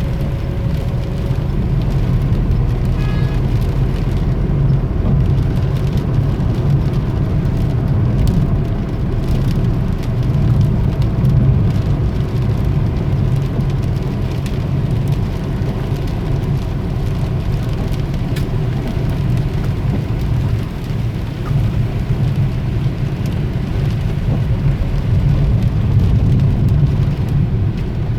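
Steady rain falling, an even wash of noise with a strong low rumble underneath.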